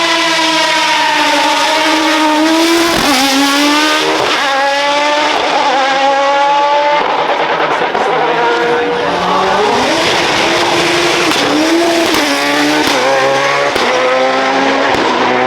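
Race car engine accelerating hard from the start, its pitch climbing and dropping back at each upshift, several times over.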